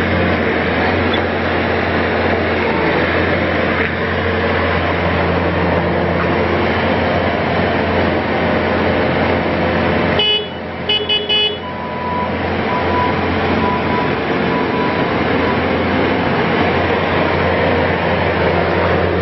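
2014 Bobcat S530 skid steer loader's diesel engine running steadily. About ten seconds in comes a short cluster of high beeps, then a few fainter, lower beeps.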